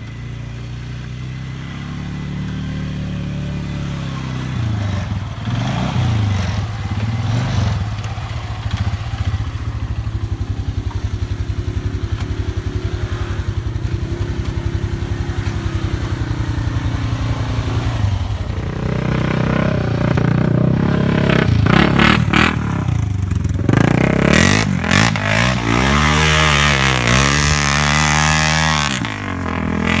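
Single-cylinder off-road engine running under way, steady at first; from about 19 seconds in it gets louder and revs up and down repeatedly, with some clatter.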